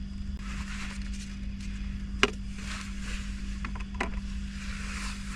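Steady rain hissing on the truck over a constant low hum, with a sharp tap a little over two seconds in and a softer one about four seconds in.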